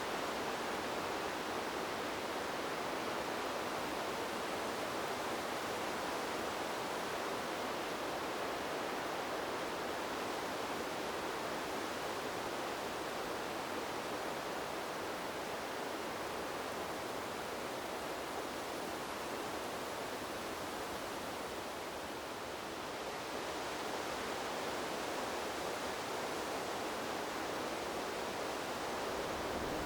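Wind blowing through a bamboo grove: a steady rushing of wind and rustling leaves that eases a little about two-thirds of the way through, then builds again.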